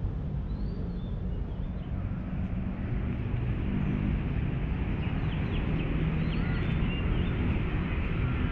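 Steady low hum of city traffic, with a few faint bird chirps over it.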